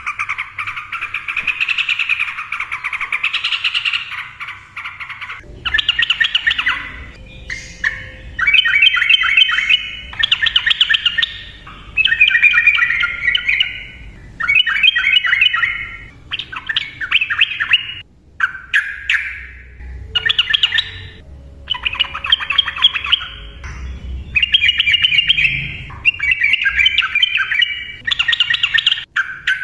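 Sooty-headed bulbul (trucukan) singing: an unbroken warbling run for about the first five seconds, then a series of rapid trilled phrases, each a second or two long, with short breaks between them.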